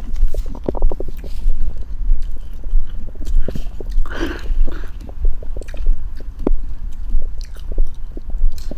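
Close-up chewing and biting of food in a regular rhythm, with moist crackly clicks and a brief squelch about four seconds in.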